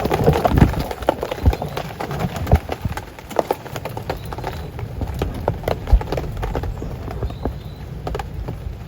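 Heavy rain falling, with large drops tapping irregularly on a nearby surface close to the microphone over a low steady rumble, busiest in the first second.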